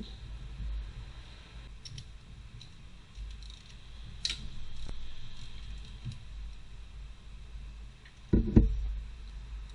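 Scattered light clicks of metal tools and parts being handled while valves are removed from a cylinder head, over a low rumble, with two heavier knocks in quick succession near the end.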